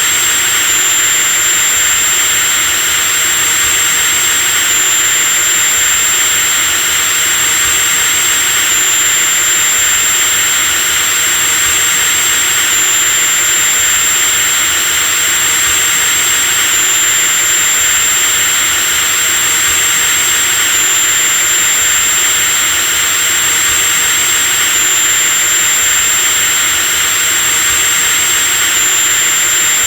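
Electric drill running continuously at a steady speed: a high motor whine over an even rush of noise, with a slight hitch in the whine about every four seconds.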